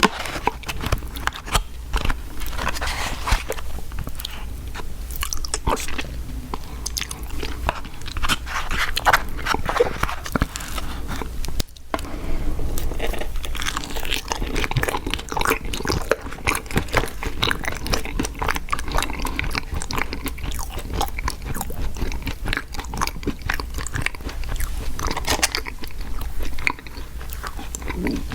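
Close-miked mouth sounds of someone eating fast food: a dense, continuous run of bites and chewing clicks, broken by a momentary gap about halfway through.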